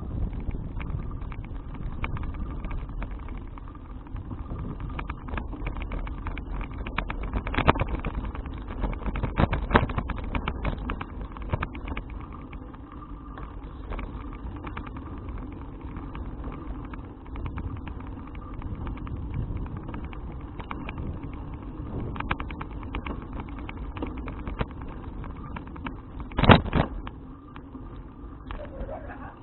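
Riding noise picked up by an action camera on a moving bicycle: steady wind and road rumble with scattered rattles and clicks. One sharp knock comes about 26 seconds in.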